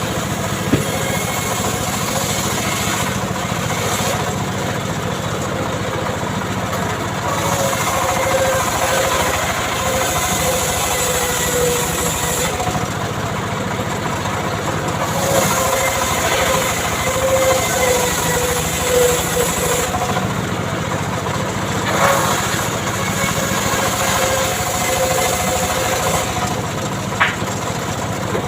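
Homemade chainsaw running steadily at working speed, its engine note wavering and dipping as the chain is loaded in mahogany wood. There are a couple of short sharp ticks near the end.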